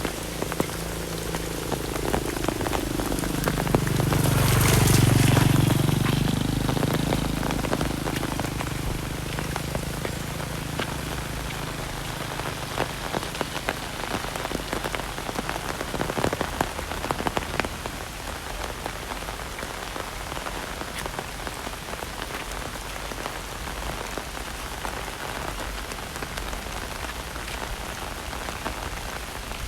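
Heavy rain falling and pattering steadily, with many small drop impacts. A low drone swells to a peak about five seconds in, then fades away.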